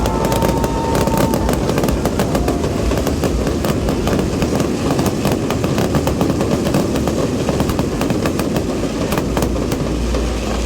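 Fireworks display: a dense, continuous barrage of bangs and crackling shells over a low rumble.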